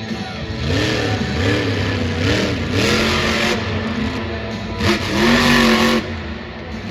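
Monster truck's supercharged, alcohol-burning engine revving in several quick rises and falls, then held at high revs for about a second near the end before cutting off.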